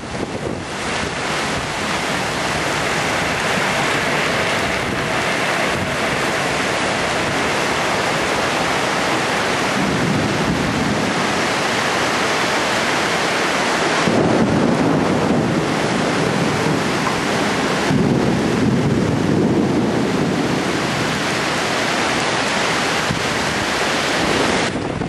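Torrential rain pouring down in a dense, steady hiss that swells louder a few times.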